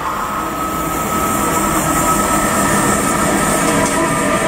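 Freight train passing at speed, headed by two ES 64 F4 (class 189) electric locomotives: a steady rumble of wheels on rails with a faint high steady tone over it.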